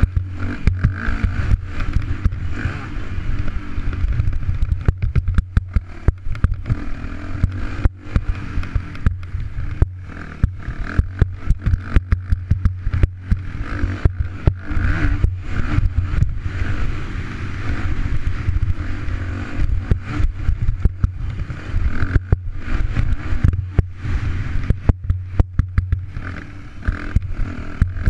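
Yamaha YZ250F four-stroke single-cylinder motocross engine running under load on track, picked up by a GoPro, with frequent sharp knocks and clatter throughout.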